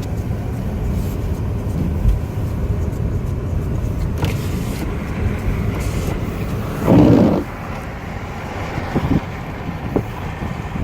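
Car driving, heard from inside the cabin as a steady low rumble of road and engine noise, with a thump about two seconds in and a brief, louder burst of noise about seven seconds in.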